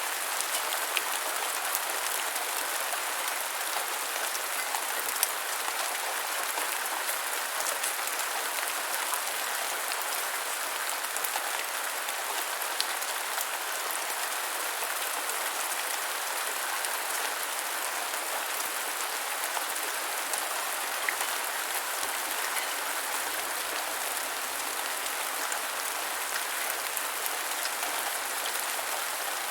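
Steady rain falling on the ground, an even hiss with scattered individual drop ticks.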